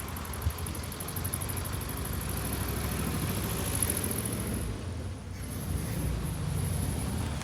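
Air-cooled flat-four engine of a 1973 VW Super Beetle running unevenly after its first start, with a brief dip in level about five seconds in; it is running rough and in need of a tune-up.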